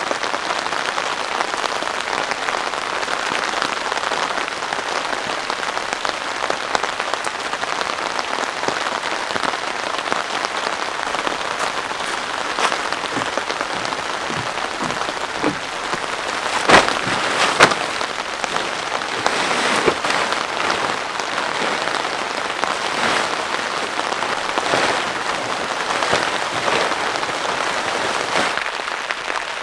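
Heavy rain falling steadily in a dense hiss, with sharper individual drops striking more often in the second half, two louder ones close together a little past halfway.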